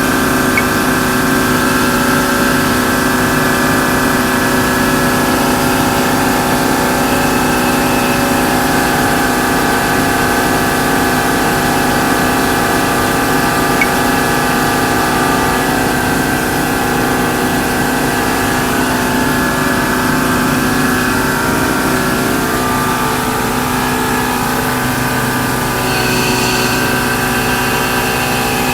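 A truck's air blower and diesel engine running steadily and loudly, pressurizing a pneumatic bulk trailer to blow flour out through the unloading line. The tone shifts slightly near the end.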